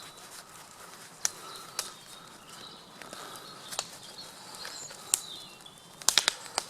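Large wood campfire crackling: single sharp pops every second or so over a faint hiss, then a quick run of pops near the end.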